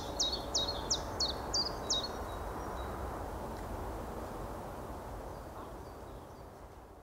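A bird calling a quick series of short, sharp, high notes, about three a second, which stops about two seconds in. Under it runs a steady low background rumble that fades away near the end.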